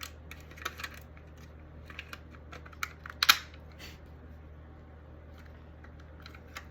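Small plastic clicks and taps of a model train locomotive's body shell being handled and fitted back onto its chassis, the loudest snap about three seconds in. A faint steady low hum runs underneath.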